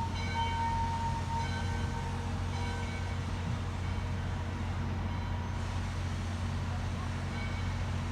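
Train running with a steady low rumble, with faint pitched tones coming and going every couple of seconds.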